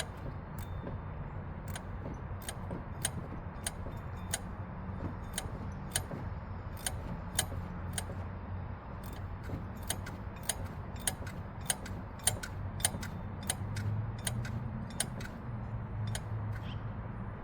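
Ratchet wrench clicking in short, uneven strokes as a water pump mounting bolt is backed out, over a low steady hum.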